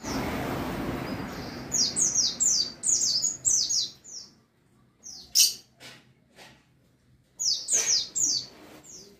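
Wild white-eye (pleci) singing: a quick run of about eight high, falling chirps, then a few sharp single calls after a pause, and a shorter run of falling chirps near the end. A rushing noise at the start fades away over the first two seconds.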